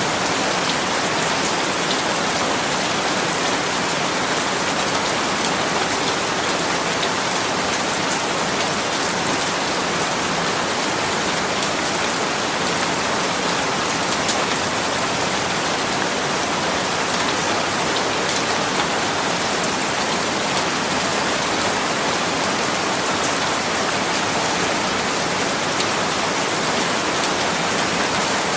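Steady, even rain falling, a constant hiss with faint patter of drops on a surface.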